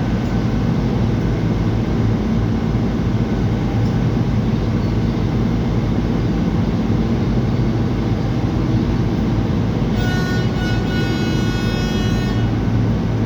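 Ferry engine running with a steady low drone. About ten seconds in, a horn sounds for about two seconds over it.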